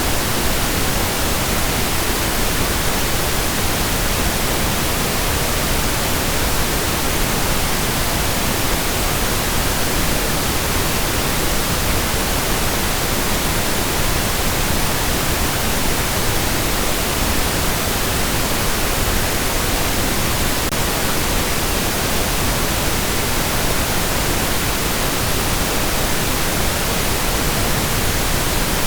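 Steady, unbroken pink noise: an even hiss spread across all pitches, softer and warmer than white noise.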